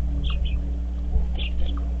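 Short bird chirps, two quick pairs, over a steady low hum.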